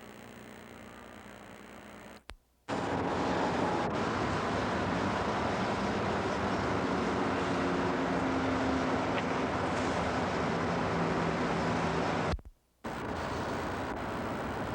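Interstate traffic: a steady rush of tyres and engines, with a faint engine hum in it. The sound cuts out briefly about two seconds in and again near the end, at splices in the footage.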